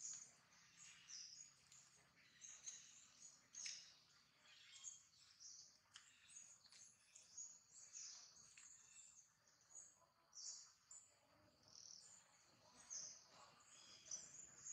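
Faint, high-pitched bird chirps, several short calls a second, over quiet forest ambience.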